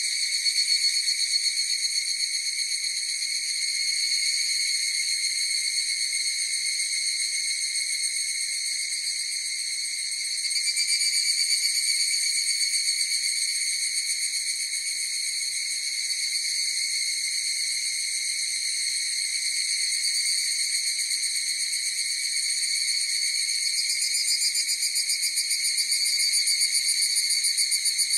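A chorus of higurashi (evening cicadas, Tanna japonensis) calling without a break: a high, ringing, slightly pulsing trill of many overlapping calls that swells louder about a third of the way in and again near the end.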